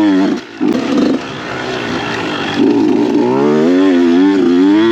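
Dirt bike engine revving up and down under the rider's throttle, cut off briefly about half a second in, then picking up again with revs that climb and waver through the rest.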